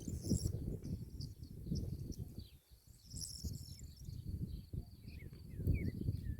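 Wind buffeting the microphone in uneven gusts over farm fields, with a steady high insect trill, like crickets, behind it and a few short bird chirps in the second half.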